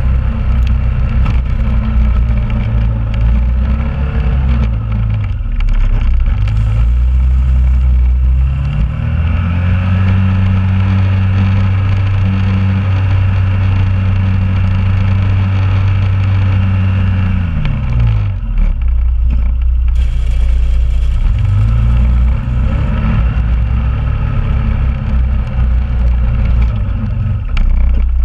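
2001 Honda Rubicon ATV's single-cylinder engine running while plowing snow. The revs climb about a third of the way in, hold steady for several seconds, drop back around two-thirds through, then rise and fall again.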